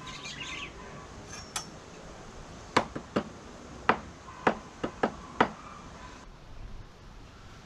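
A series of sharp knocks, about seven in under three seconds at irregular spacing, from hand work on a wooden mounting plate.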